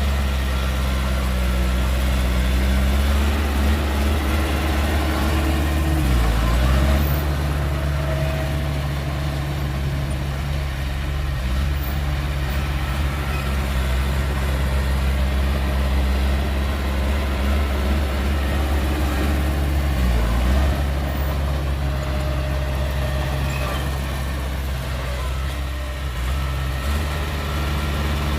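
Heavy diesel engine of earthmoving machinery running steadily. Twice, about fourteen seconds apart, its speed dips briefly and recovers, as an engine does when it is loaded.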